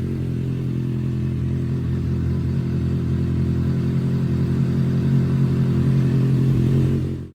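A 2024 Kawasaki Ninja ZX-6R's 636 cc inline-four, running through an aftermarket exhaust, holds a steady low idle at an even pitch. The sound cuts off suddenly near the end.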